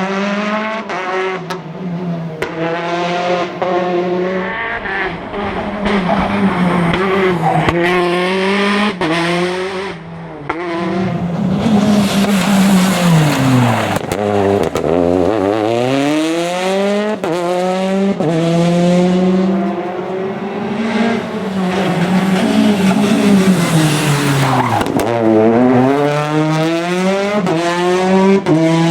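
Rally car engines driven hard on a stage, revving up and down through quick gear changes. The revs drop right down twice, about halfway through and again near the end, then climb as the car accelerates away.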